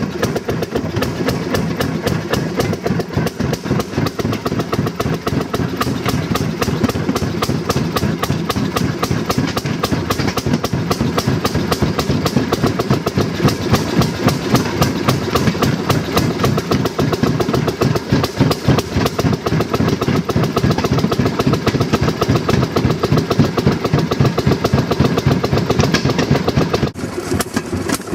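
A railroad speeder (track motor car) running along narrow-gauge track. Its small engine runs with a rapid, even beat, and the wheels click on the rails. The sound drops a little about 27 seconds in.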